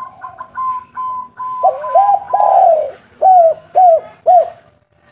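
Spotted dove (tekukur) cooing: one long drawn-out coo followed by three short coos about half a second apart. Fainter, higher short notes come before it in the first second and a half.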